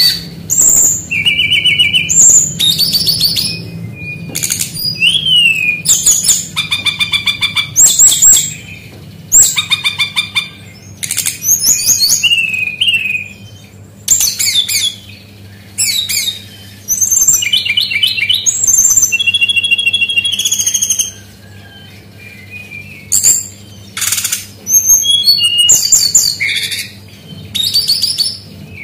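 Brown-chested jungle flycatcher singing a long, varied song of fast trills, rapid chattering runs and clear whistled glides in short phrases with brief gaps, mimicking the calls of other birds.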